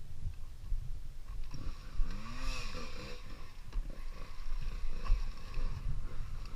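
Dirt bike engine revving up and dropping back twice in quick succession about two seconds in, over a steady uneven low rumble.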